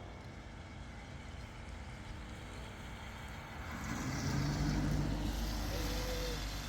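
A motor vehicle passing close by. Its engine and tyre noise swells about four seconds in, peaks, then fades.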